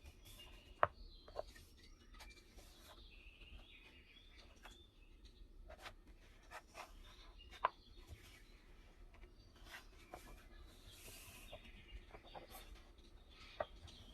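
Quiet handling of a leather notebook and its paper refill: soft rubbing and a brief brushing sound around eleven seconds in, with a few sharp clicks, the loudest about a second in. Small birds chirp faintly throughout.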